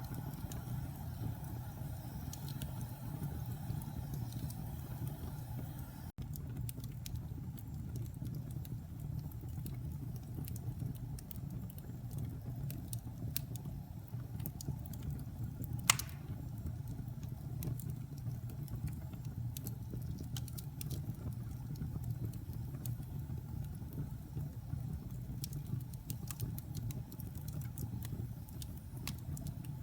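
Wood fire burning in a fireplace: a steady low rumble with scattered small crackles, and one sharp pop about halfway through.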